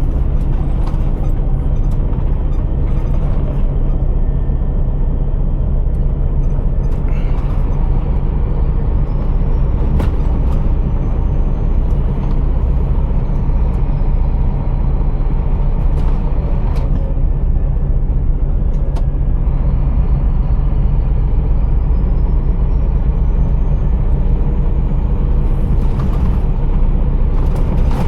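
Scania R480 truck's diesel engine running steadily, with a few short clicks and brief hisses and a faint high whistle that rises and falls twice.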